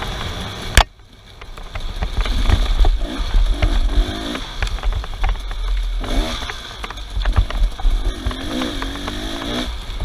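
Off-road vehicle engine revving up and down again and again, over a heavy low rumble with scattered knocks. A sharp click comes just under a second in, and the sound drops briefly after it.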